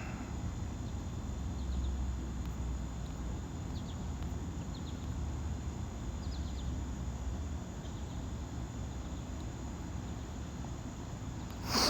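Steady low background hum with a few short, faint chirps of insects such as crickets.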